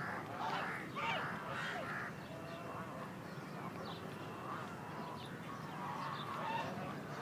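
Many birds calling at once, a dense chorus of short overlapping chirps and calls.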